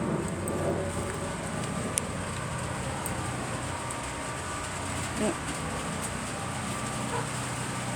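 Steady outdoor background hum with occasional faint ticks as light rain begins to fall.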